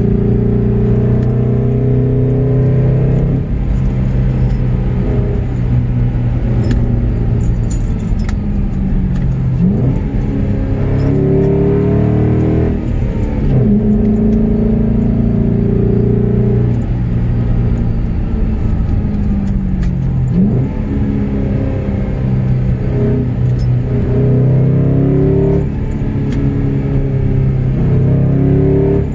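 Car engine running under way, its revs rising and falling several times as the car is driven through a run of curves.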